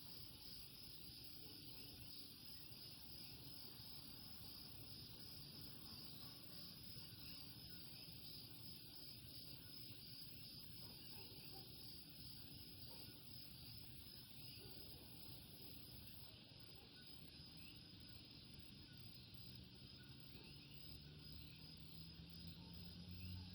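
Faint chorus of common coquí frogs chirping, over a steady trill of insects. A low hum swells near the end.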